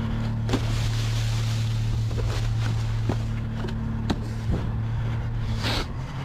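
Garbage truck running with a steady low hum, with several separate knocks and clanks over it.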